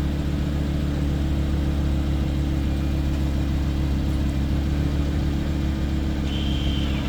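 Lamborghini Huracán's V10 engine idling steadily.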